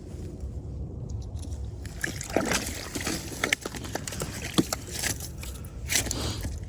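Water splashing and sloshing in a hole in the ice as a northern pike is hauled up through it, with scattered knocks and scrapes. The splashing starts about two seconds in and comes in irregular bursts.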